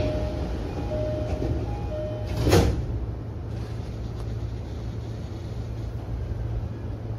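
Electric commuter train standing at a station platform, with a steady low hum from the stopped train. Over the first two seconds or so a short two-note chime repeats, then a brief, loud burst of noise comes about two and a half seconds in.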